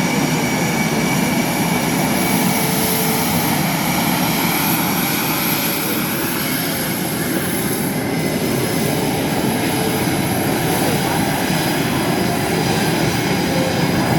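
Engine noise of a small jet flying an aerobatic display: a steady rushing sound with a faint high whine running through it.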